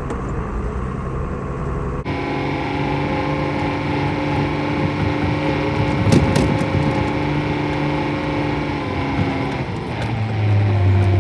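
A vehicle engine running steadily as it manoeuvres back and forth in a multi-point turn, with the engine note dropping deeper and getting louder near the end.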